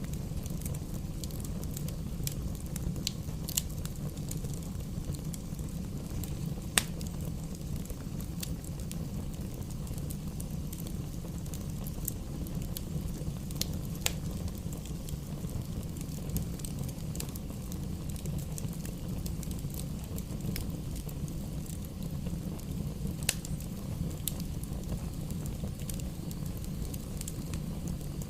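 Campfire burning: a steady low rumble of the flames with irregular sharp crackles and pops of the burning wood, one louder pop about seven seconds in.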